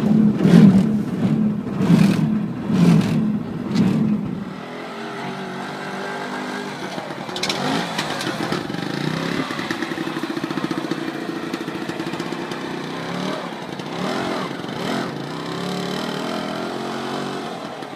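Iso Isetta's split-single two-stroke engine revved in a series of short blips over the first few seconds, then running more steadily with its pitch rising and falling.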